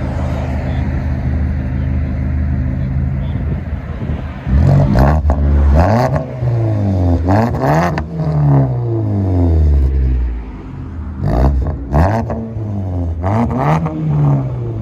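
A 2014 Ford Fusion's 2.5 L four-cylinder, straight-piped with muffler and resonator deleted, idles steadily through its exhaust. About four and a half seconds in it is revved several times, the pitch climbing and falling with each rev, with sharp crackles near the top of the revs.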